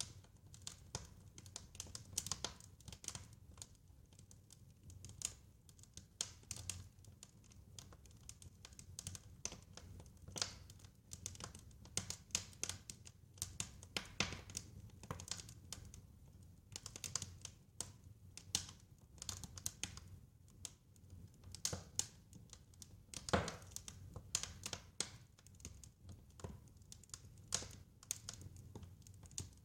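Wood fire crackling: irregular small pops and snaps over a low steady rumble, with one sharper crack about twenty-three seconds in.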